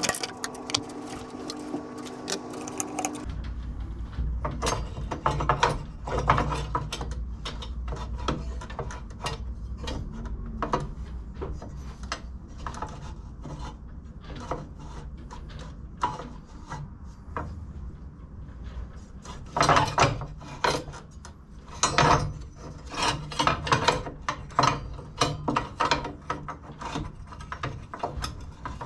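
Clicks, knocks and clatter of metal parts and hand tools being worked on a lawn mower's front height adjuster, irregular and busiest in the last third, over a low hum. A steady droning tone runs underneath at first and stops about three seconds in.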